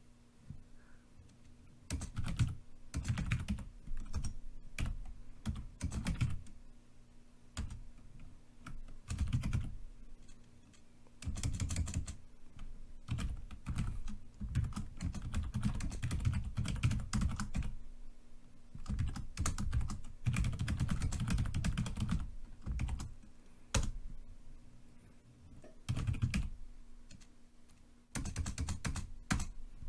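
Typing on a computer keyboard: runs of quick keystroke clicks in bursts of a few seconds, broken by short pauses.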